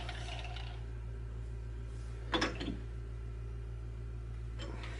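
Steady low hum of shop background, with a brief faint click or breath about two and a half seconds in.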